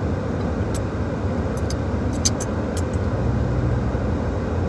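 Steady road and engine noise heard inside a moving car's cabin, with a few light clicks in the middle.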